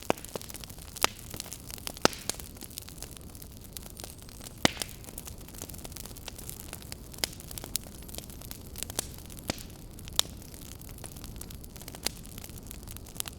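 Fireplace fire crackling: irregular sharp pops and a few louder snaps over a steady low hiss of the flames.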